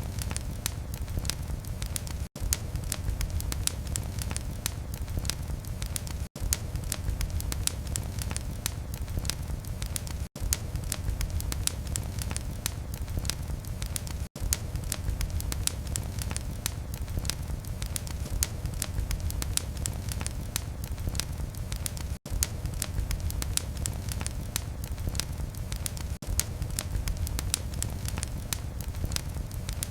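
Wood fire burning in a fireplace: a steady low rumble of flames under dense, sharp crackles and pops. The sound cuts out for an instant about every four seconds.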